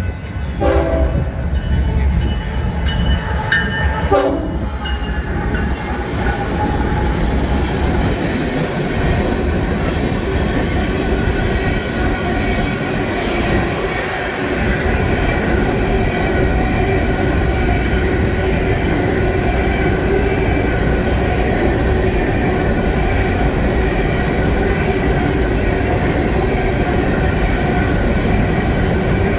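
A train passing close by, with two short horn sounds in the first few seconds, then the steady running noise of the train going by.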